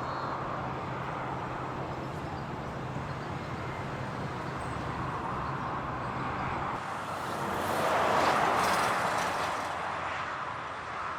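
Steady traffic noise of vehicles on a wet road, with an engine hum under it for the first several seconds. A vehicle passes about eight seconds in, swelling and then fading.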